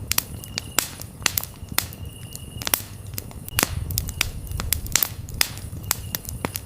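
Wood campfire crackling, with frequent sharp irregular pops over a low steady rumble of burning. Crickets chirp in short trills that repeat every second or two.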